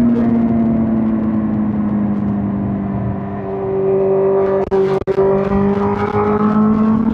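2005 Suzuki GSX-R1000 K5's inline-four engine running on the road, its pitch sinking slowly at first. About five seconds in the sound cuts out twice very briefly, as in gear changes, and then the pitch climbs again as the engine pulls.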